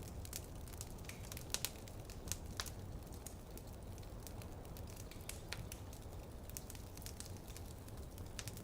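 Wood fire in a fireplace crackling, with irregular sharp pops and snaps over a steady low rumble. Two louder pops come about a second and a half in.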